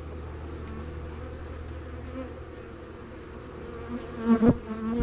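Honey bees buzzing around an open hive, a steady hum with a wavering pitch. About four seconds in a bee buzzes loudly close by, its pitch bending up and down, and a short knock follows at the end.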